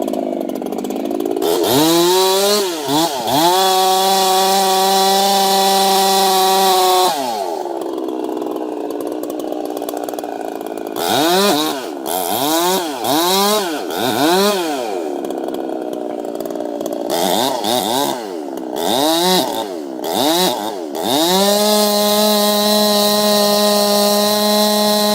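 Two-stroke chainsaw engine revving. The throttle is blipped up and down repeatedly and held at high revs for several seconds at a time, dropping back to idle between.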